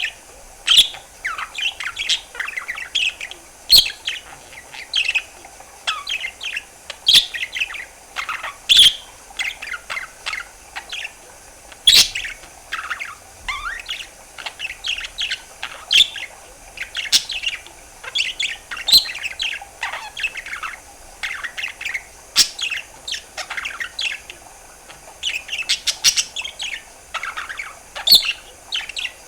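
Budgerigar chattering: a fast, unbroken run of short chirps, whistles and warbles, with a sharp click every few seconds.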